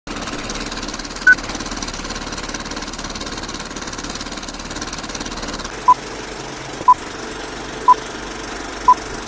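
Steady mechanical rattle with short electronic beeps: one higher beep about a second in, then from about six seconds a lower beep once a second, like a countdown.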